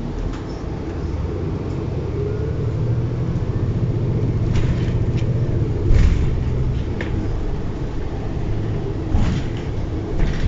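Shuttle bus engine running as the bus drives, a steady low rumble heard from on board. The drone rises a little early on. There is a sharp bump about six seconds in and a few short rattles.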